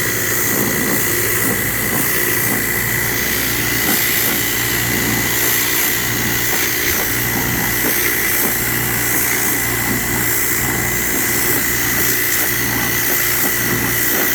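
Hotsy pressure washer spraying steadily, a loud, even hiss of the high-pressure cold-water jet on concrete retaining-wall blocks with a steady high whine over the machine's drone; the burner is off.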